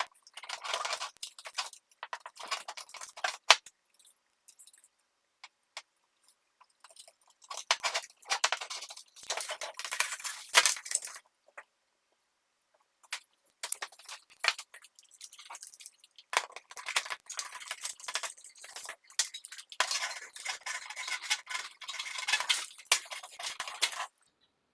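Metal clock parts being handled and worked: clinking, tapping and scraping in separate bursts, with silent gaps between them.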